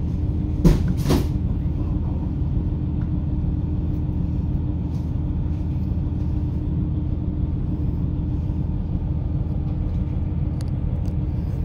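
Steady low rumble of a moving diesel railcar heard from inside the car, engine and wheels on the track, with a constant hum under it. Two sharp knocks come close together about a second in.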